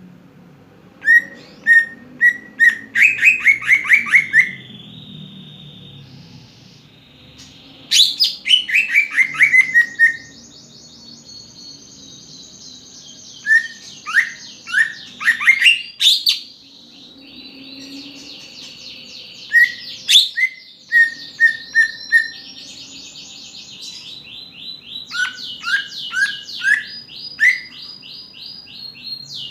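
Cucak ijo (green leafbird) singing in a varied run of phrases: quick chirps, downward-sweeping whistles and buzzy trills, with short pauses between phrases.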